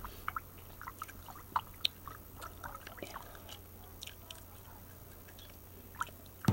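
Chewing gum close to the microphone: irregular soft, wet clicks and smacks of the mouth, over a faint steady low hum.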